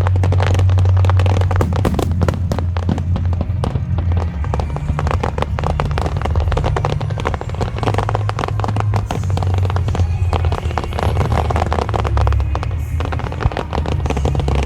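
A fireworks barrage: many shells bursting and crackling in rapid, overlapping succession, over music with a steady low bass line played over loudspeakers.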